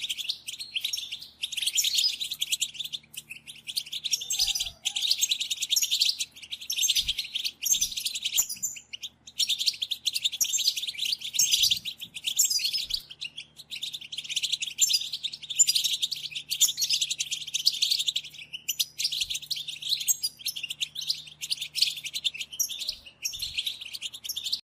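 A flock of European goldfinches twittering together: many overlapping bird calls and song phrases in a dense, continuous chatter, with only brief lulls.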